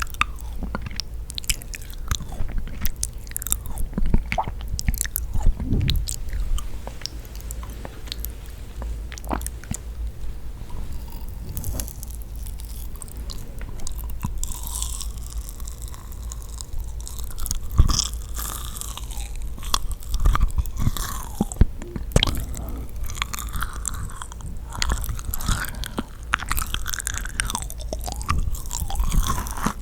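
Close-miked chewing and biting of yakgwa, a sticky honey-soaked Korean fried cookie, with many quick wet, sticky smacks and clicks of the mouth.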